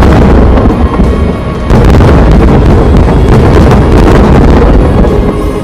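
Dense, continuous booming and crackling of many large aerial firework shells bursting together in a long line, with music playing over it. The booming sags for a moment about a second in, then comes back in full near two seconds.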